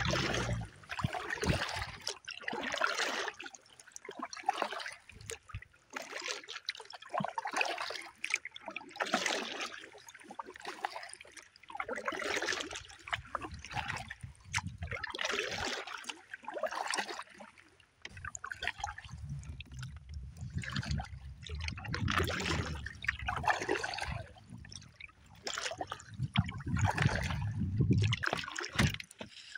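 Canoe paddle strokes in calm water: a trickling swish about every one and a half to two seconds as the blade dips and pulls. A low rumble joins in during the second half.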